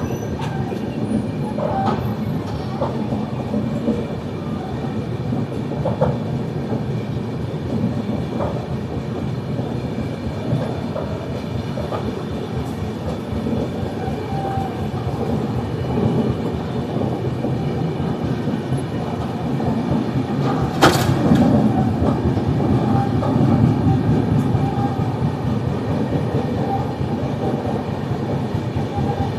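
Passenger coaches of the Banaras–Hubballi Express running along the track: a steady rumble of wheels on rail with scattered clicks over rail joints, a sharp knock about two-thirds of the way through, and the running grows a little louder for several seconds after it.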